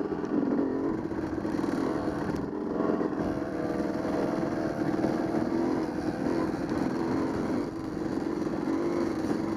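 Dirt bike engine running under way, its pitch wavering slightly up and down with small changes of throttle.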